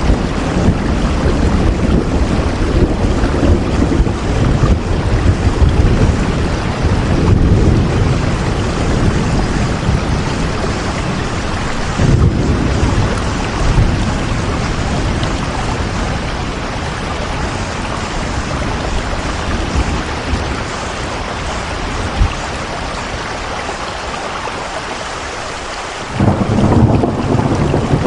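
Heavy rain falling steadily, with a deep rumble underneath that fades over the second half and comes back suddenly near the end.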